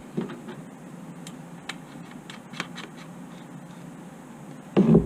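Scattered light plastic clicks and handling noises: zip ties being fitted and pulled tight on a generator's fuel hose connections. A louder bump near the end.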